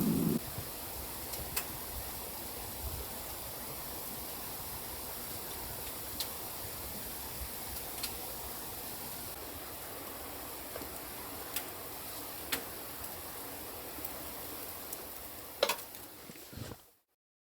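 Steady rushing of a valley stream, with scattered sharp clicks over it. It fades down and cuts to silence near the end.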